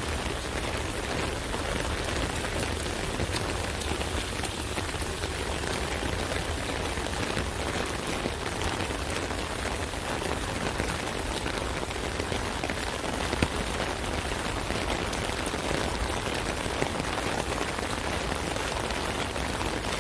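Steady rain drumming on an open umbrella: a dense patter of drops on the fabric, with a couple of louder single drops about two-thirds of the way through.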